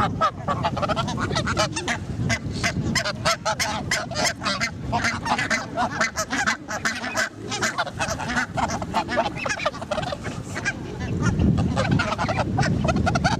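A flock of geese honking, many short calls overlapping in a continuous clamour.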